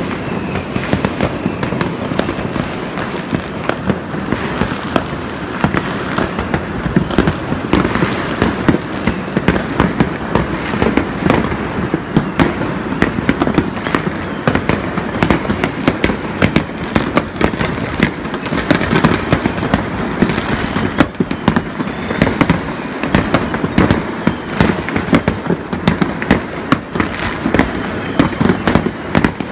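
Many fireworks going off across a whole city at once: an unbroken crackle of overlapping bangs and sharp pops, with no pause.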